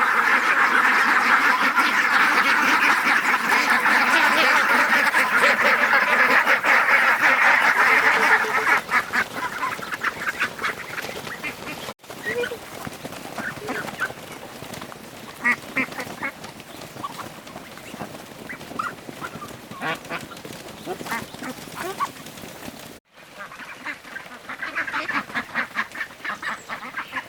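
A flock of ducks quacking. The calling is dense and loud for the first several seconds, thins to scattered calls, then grows busier again near the end.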